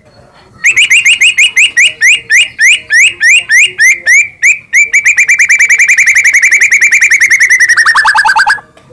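White-rumped shama (murai batu) singing a long trill of repeated upslurred whistles, starting at a few notes a second and quickening into a fast, even run that drops in pitch just before it stops.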